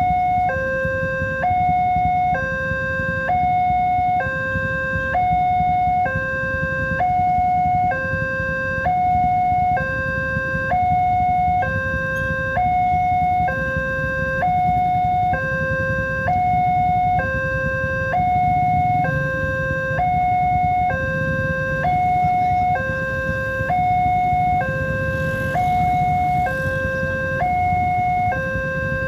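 Electronic two-tone level crossing warning alarm sounding steadily, alternating high and low about once a second, the signal that a train is approaching and the gates are closing. A low rumble runs underneath.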